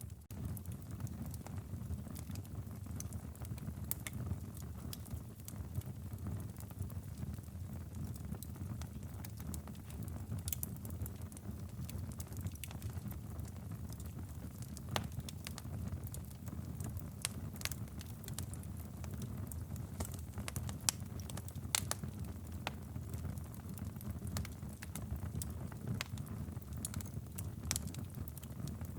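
Wood fire burning in a fireplace: a steady low rumble of flame with irregular sharp crackles and pops.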